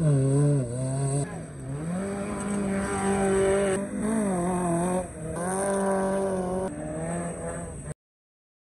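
Maruti Suzuki Gypsy engines revving hard off-road, the pitch rising and falling as the throttle is worked, in several abruptly joined takes. The sound cuts off suddenly about eight seconds in.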